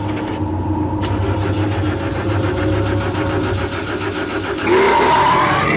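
Car engine running with a fast, even pulse, then revving up near the end, its pitch rising and the sound getting louder.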